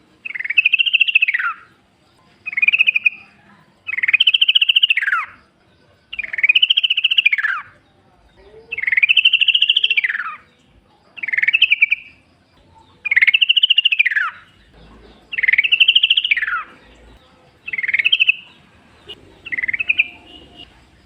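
Yellow-vented bulbul (trucukan) singing, repeating the same short phrase about every two seconds. Each phrase rises and then falls in pitch.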